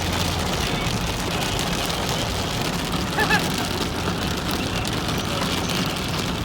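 Heavy rain falling on a moving car, heard from inside the cabin over steady road and engine noise. A brief two-note chirp sounds about three seconds in.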